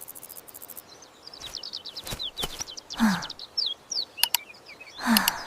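Small birds chirping in quick, short falling notes, with a few sharp clicks and two louder short falling calls, about three seconds in and near the end.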